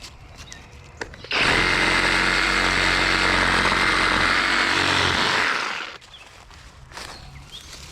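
Skil cordless brushless reciprocating saw running and cutting through a tree branch. It starts about a second in, runs steadily with a high whine for about four and a half seconds, and stops.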